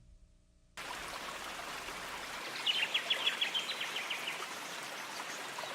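A bird calling a quick run of about a dozen short notes, slightly falling, over a steady outdoor background hiss that sets in about a second in.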